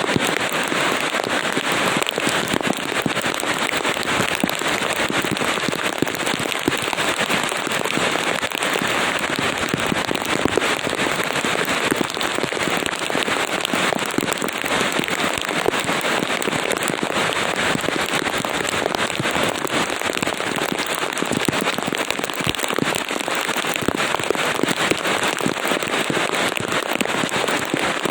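Steady rain: an even hiss of falling rain with many small ticks of drops hitting a surface, unchanging throughout.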